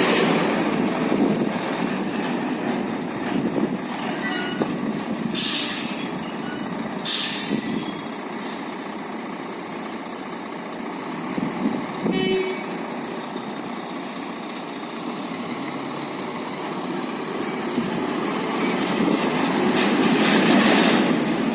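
Large multi-axle truck running on the road, a steady rumble of engine and tyres, with two short sharp hisses of air about five and a half and seven seconds in and a louder swell of noise near the end.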